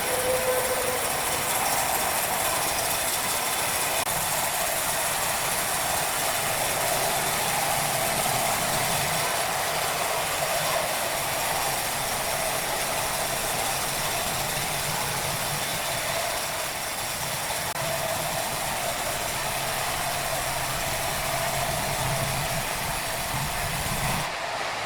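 Sawmill machinery running steadily: a continuous mechanical noise with a low hum underneath, with no breaks or rhythm.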